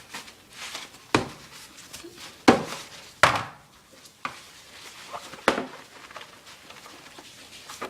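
Bird-cage parts knocking and clattering as they are handled and cleaned: about five sharp knocks spread over several seconds, with quieter handling and rubbing noise between them.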